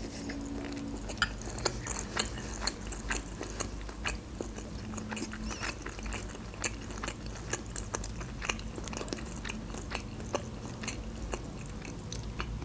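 Close-miked chewing of a mouthful of crab salad, with many small, irregular mouth clicks and smacks.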